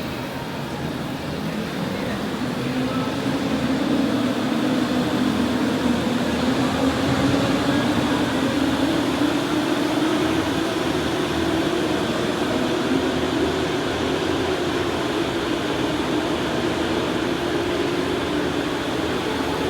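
Electric go-kart motor whining steadily under a noisy bed of running sound, its pitch slowly climbing over the first half and easing off a little near the end as the kart's speed changes.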